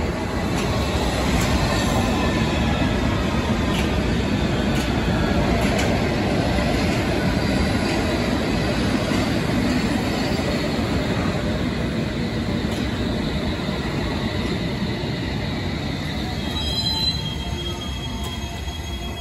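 London Underground Metropolitan line S8 Stock train running into the platform, a steady rumble of wheels on rail with faint wheel squeal over it. A few short high squeals come near the end as the cars roll slowly past.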